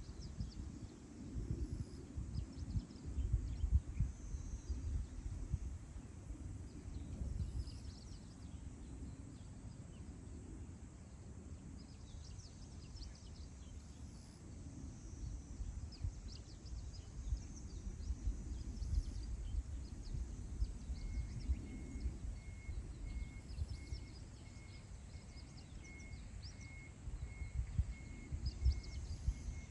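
Wind gusting over open grassland, buffeting the microphone with a low rumble that rises and falls, while wild birds give scattered short high chirps. From about two-thirds of the way in, a steady series of short high pips repeats, a little more than one a second.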